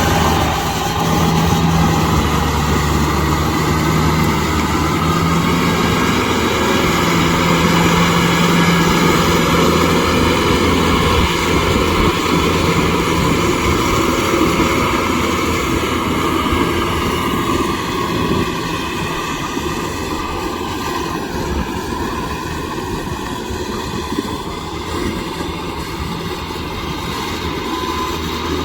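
Kubota M6040SU tractor's diesel engine running steadily under load while pulling a rotavator, with a steady noisy churn over the engine drone. It gets slightly quieter over the last ten seconds.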